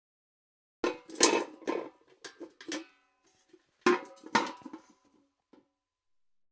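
Steel bucket clanking: a cluster of knocks and rattles about a second in and another about four seconds in, each hit followed by a short metallic ring, then one faint knock near the end.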